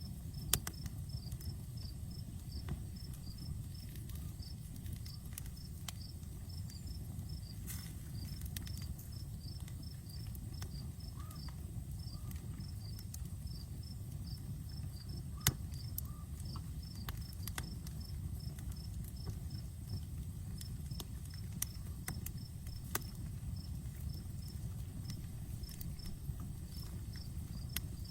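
Outdoor wood campfire burning with a low, steady rush and scattered sharp crackles and pops, two of them louder, about half a second and about fifteen seconds in. Crickets chirp in quick, regular pulses throughout.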